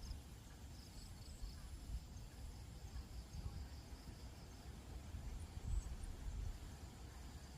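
Faint outdoor ambience: a low, uneven rumble with faint high-pitched chirping in the first few seconds.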